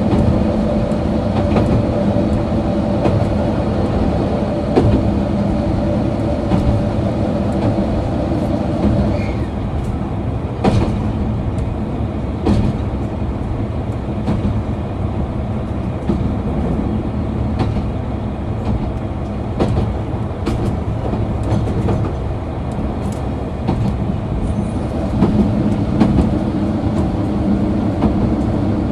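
Diesel engine of a KiHa 261 series railcar running with the train in motion, a steady engine drone over the rolling rumble, with sharp clicks from the wheels. The engine tone weakens about nine seconds in and comes back strongly near the end.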